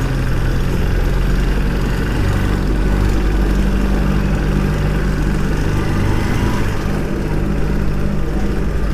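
Motorcycle engine running at a steady, even speed while riding, with a steady rush of road noise over it.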